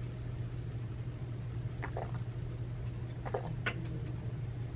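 A steady low hum with a few brief clinks, about two seconds in and twice more near the end.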